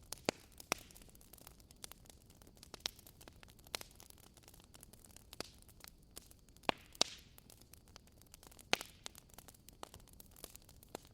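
Wood fire crackling: irregular sharp pops and snaps over a faint steady hiss, with a brief rush of hissing about seven seconds in.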